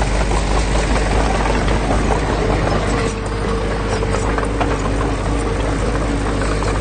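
Heavy construction machine's diesel engine running steadily, a deep rumble with a steady whine above it.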